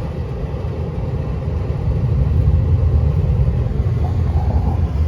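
Low, steady rumble of a large rooftop air-conditioning unit running, growing a little louder about two seconds in.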